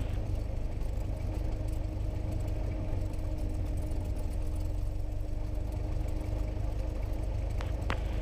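Cessna 172S's Lycoming four-cylinder engine and propeller running steadily at low taxi power, a constant low hum. A single short click comes near the end.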